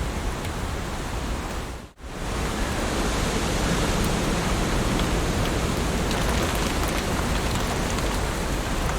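Heavy rain falling in a steady, dense hiss with scattered drop ticks. About two seconds in, the sound briefly fades almost to nothing and comes straight back, slightly louder.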